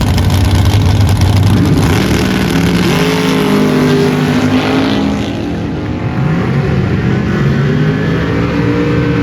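Drag racing cars launching and running down the strip. A heavy, loud engine drone comes first, then from about two seconds in the engine notes climb and drop repeatedly as the cars accelerate away through their gears.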